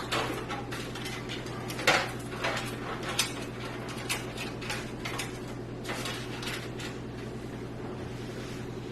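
Cables being pulled and pushed through a PC case: irregular clicks, taps and rustling of plastic and metal, with the sharpest knock about two seconds in.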